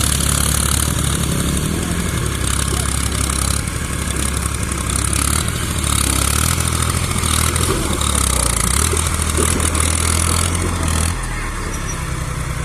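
Heavy diesel engine running, its note stepping up and down several times, with a rushing noise over it.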